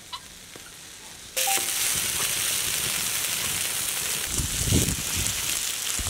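Egg-soaked bread slices sizzling on a hot, greased iron griddle as French toast fries. The sizzle starts suddenly about a second and a half in, and irregular crackling pops join it from about four seconds in.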